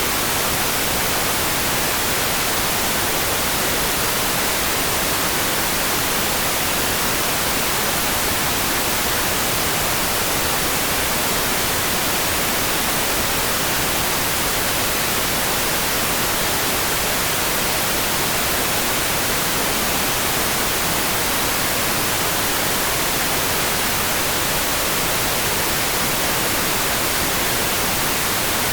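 Steady, dense hiss of heavy rain, even and unchanging, brightest in the high range, with no separate drops or other events standing out.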